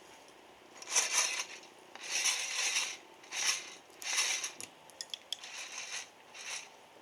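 Coffee beans rattling in a hand roaster, shaken in about six short bursts, with a few sharp clicks around five seconds in.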